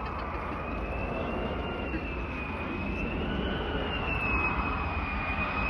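Jet engine of an F-35 Lightning II on approach to land, a high whine that wavers slightly in pitch over a broad rushing noise, growing slowly louder as it nears. The aircraft has a single Pratt & Whitney F135 turbofan engine.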